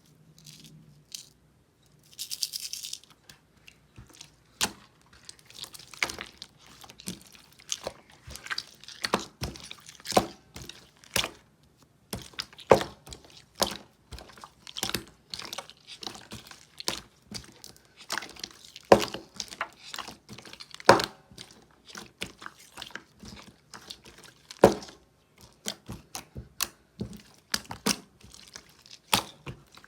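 Clear slime with heart-shaped glitter sprinkles being pressed, poked and stretched by hand. It makes irregular sticky clicks and pops, a few a second, with a brief hissing rustle about two seconds in.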